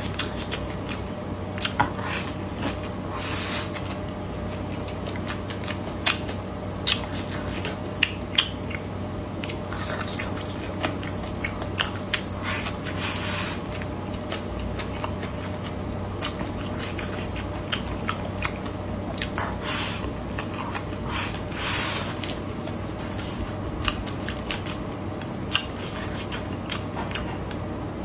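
Close-up chewing and mouth sounds of someone eating a stir-fry of braised pig's head meat with peppers and rice, with frequent short wet smacks and clicks, over a steady low hum.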